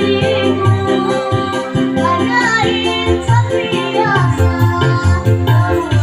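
A child singing a melody with wavering held notes over electronic keyboard accompaniment with a steady bass rhythm.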